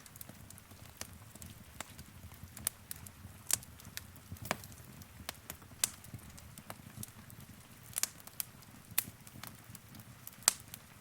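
Wood fire in a fireplace crackling: irregular sharp pops and snaps, a few a second, over a low steady rumble of the flames, with the loudest pop near the end.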